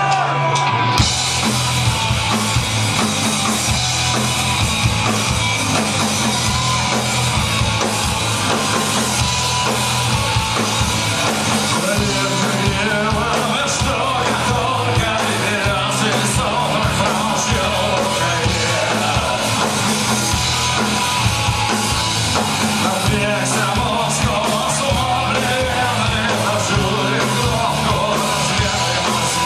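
Live punk rock band playing loud and steady, with drum kit and shouted vocals, kicking into a song right at the start.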